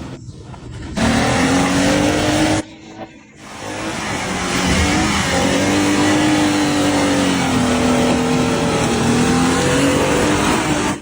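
Off-road 4x4's engine revving hard under load, its pitch rising and falling, over a dense rushing noise. It breaks off sharply for about a second a couple of seconds in, then builds back and holds.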